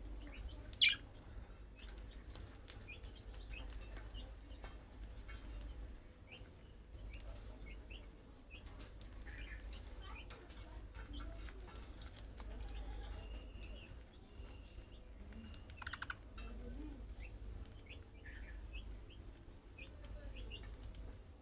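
Budgerigars chirping and chattering in many short, scattered calls, with a sharp click about a second in and a steady low hum beneath.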